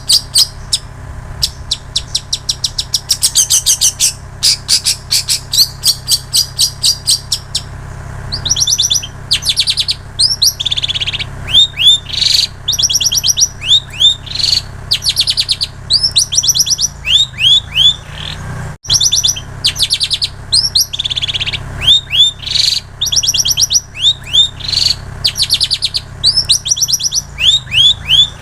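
Long-tailed shrike (cendet) singing a continuous mimicked song of ciblek sawah and canary phrases. It opens with fast runs of sharp repeated chips and goes on with phrases of quick, downslurred whistled notes.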